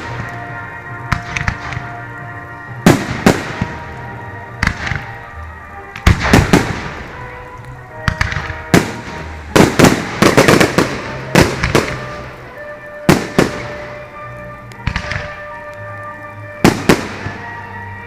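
Fireworks going off: sharp bangs at irregular intervals, some with crackling after them and a dense run of bangs near the middle. Music plays steadily underneath.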